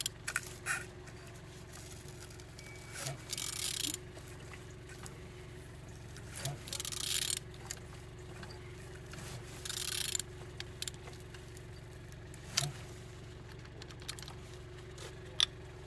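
BMW N47D20 four-cylinder diesel engine's crankshaft being turned over by hand with a wrench: three bursts of metallic rattling and scraping, each about a second long, with a few clicks between, over a faint steady hum. The engine turns freely and is not seized.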